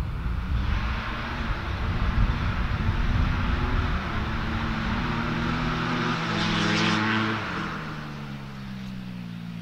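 A vehicle engine running with wind on the microphone, growing louder to a peak about seven seconds in, then dropping in pitch and fading as it passes.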